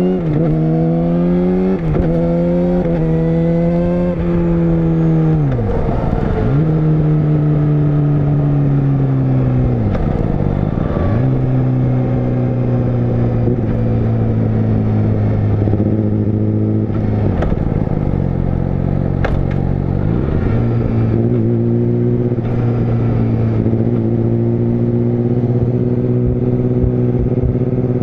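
Yamaha YZF-R6 (RJ27) inline-four engine running on the road at moderate revs. The pitch climbs at first, then drops sharply and recovers several times before settling into a steady lower drone.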